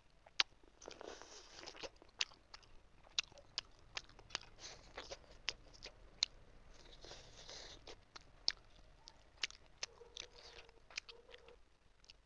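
Close-up chewing of steamed chicken momos: soft, wet chewing with sharp, irregular smacking and clicking mouth sounds.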